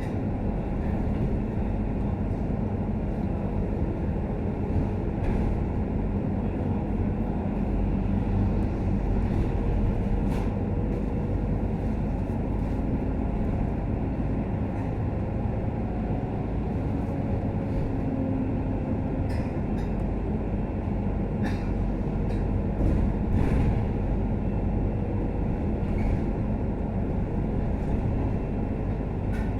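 Scania K310UD double-decker bus heard from inside while it drives: a steady engine and road rumble with a faint engine hum, and occasional light rattles and clicks.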